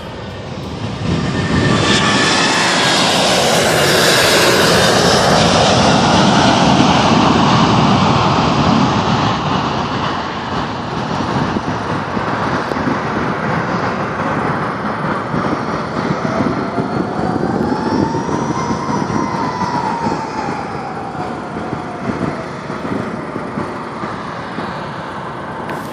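Four-engine Airbus A340 jetliner climbing out just after liftoff. Its jet engines swell to a loud roar within the first couple of seconds, hold it for several seconds, then slowly fade, with a whine that rises and falls about two-thirds of the way through.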